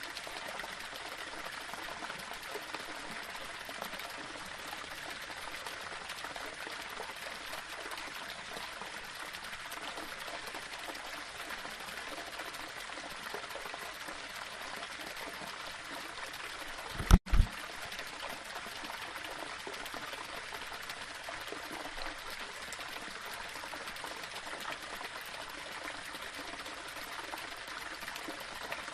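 A small waterfall splashing steadily over stones, an even rushing of water. Just past halfway comes one brief, loud low thump with a split-second cut-out.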